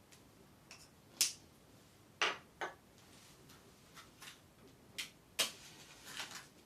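Scattered drops of rainwater dripping onto a hard surface: about ten sharp taps at irregular intervals over a faint hiss, a few of them louder than the rest.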